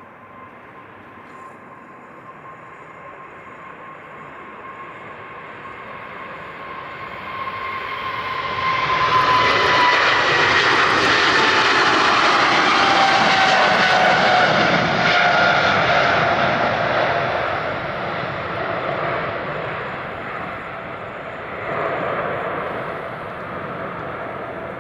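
Boeing 777 freighter's GE90 turbofan engines at takeoff power passing by: the jet noise builds to a loud peak about a third of the way in, then fades, while the engines' whine slides down in pitch as the aircraft passes.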